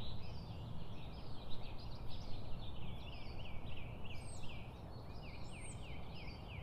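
A small bird singing in quick, repeated chirps that each slide downward in pitch, with a few higher notes, over a steady low background rumble.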